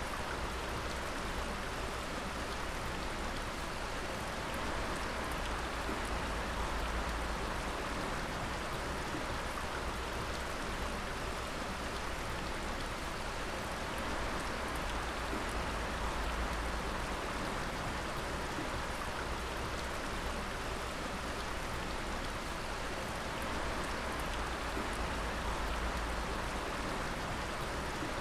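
Water dripping steadily, many drops falling and splashing together into a continuous rain-like patter and hiss.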